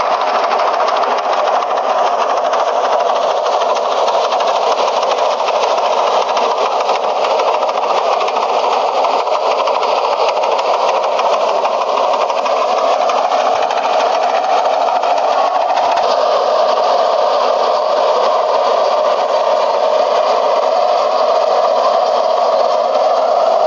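Tractor-mounted Dasmesh 912 rice harvester running on a John Deere 5310: a steady diesel engine with the rattle of the harvesting machinery, holding an even pace throughout.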